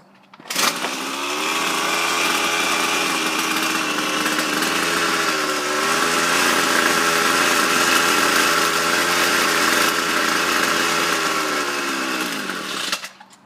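Ryobi gas string trimmer engine firing on a cold start and running for about twelve seconds, its pitch wavering and sagging, then winding down and dying near the end. The stumbling and stalling is typical of the cold engine not yet running properly.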